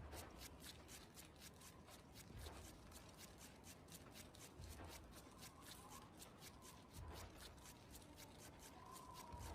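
Faint rapid clicking, about five clicks a second, with a soft low thump every two and a half seconds or so.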